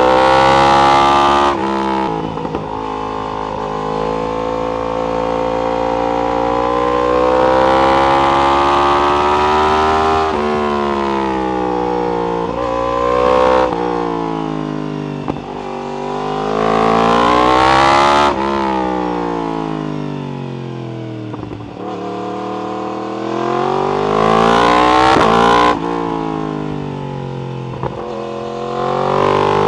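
Yamaha R1 inline-four through an Akrapovic exhaust, ridden hard. The engine pitch climbs through the revs and breaks sharply at each upshift, several times over. In between it falls away when the throttle is closed, with one long slowing about two-thirds of the way through.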